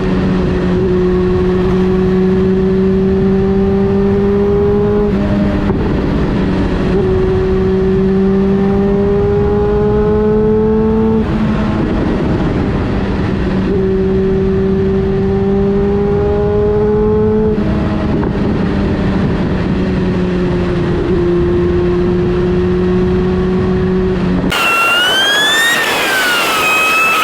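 Honda CB400SF Revo's inline-four engine running at steady cruising revs under way, with wind and road noise. Its pitch creeps slowly upward and breaks off about six times, then settles back in. Near the end the sound cuts abruptly to a high, wavering tone.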